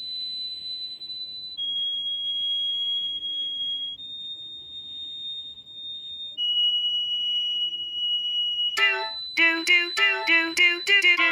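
Four long, steady, high-pitched tones in a row, each held about two seconds at a different pitch. From about nine seconds in they give way to a run of short plucked notes, about two a second.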